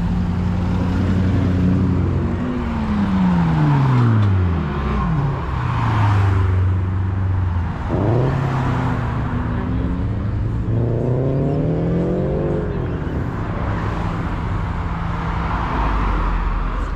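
Engines of old vehicles driving past: a steady engine drone, one engine dropping in pitch as it goes by a few seconds in, and another revving up in pitch around the middle.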